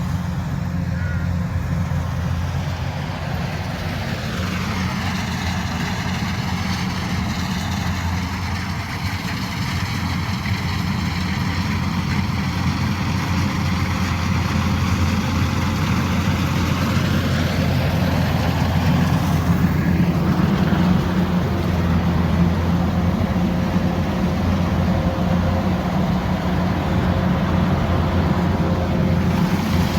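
Combine harvester running steadily under load, a deep engine drone with a faint higher machine whine that dips and then rises again partway through.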